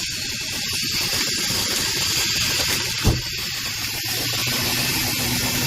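Car-wash vacuum hose sucking air with a steady hiss while cleaning a car's interior, with a single knock about three seconds in.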